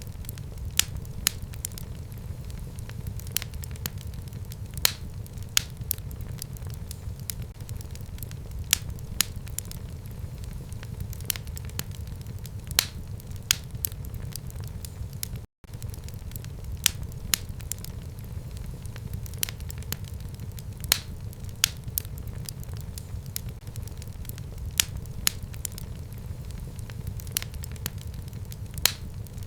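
Wood fire in a home fireplace crackling, with irregular sharp pops and snaps over a low steady rumble of the flames. The sound drops out for an instant about halfway through.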